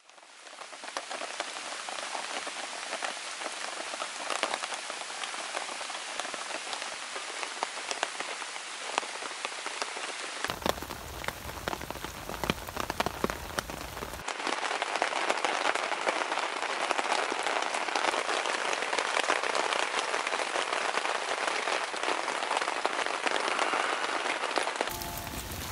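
Rain falling on a tent and on wet ground: a steady hiss made of many small drop ticks.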